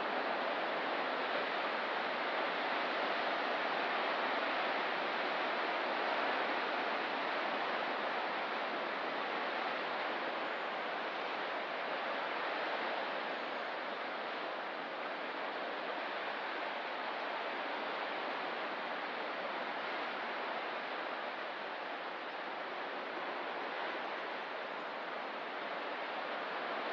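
Ocean surf: a steady rushing wash of waves with no separate breakers standing out, a little louder in the first several seconds.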